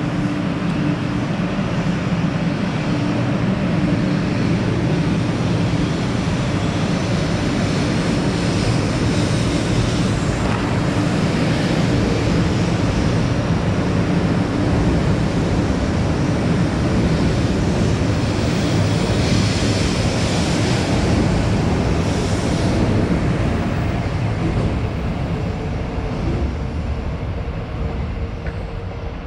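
A 500 series Shinkansen in Hello Kitty livery pulling out of the station and accelerating past: a steady rumble of wheels and traction motors with rushing air. The sound fades over the last few seconds as the train draws away.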